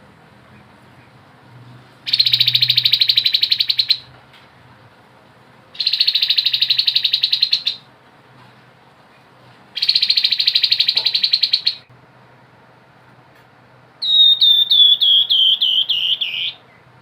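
Grey-headed babbler singing: three rapid, even trills of about two seconds each with short pauses between them, followed near the end by a quick run of about ten notes that fall steadily in pitch.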